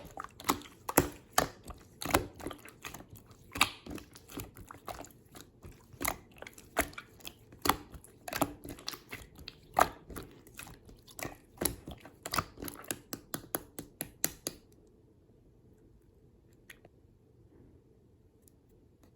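Clear slime being squished and pressed by hand, making a run of sharp, sticky clicks and pops, several a second, that stop about three-quarters of the way through.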